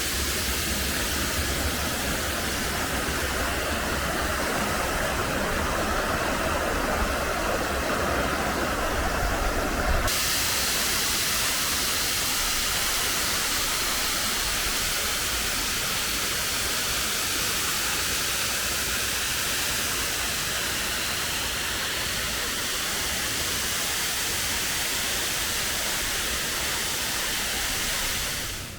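Hondana waterfall's falling water making a steady, loud rushing hiss. About ten seconds in, the sound changes abruptly and becomes brighter and hissier, with less low rumble. It fades out near the end.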